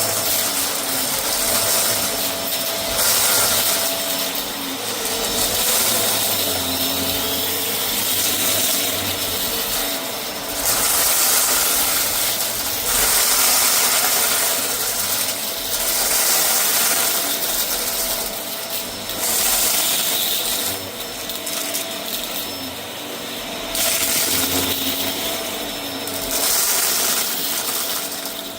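Vacuum cleaner running over a rug and picking up a scattered debris mix, its sound swelling and easing every few seconds with the strokes.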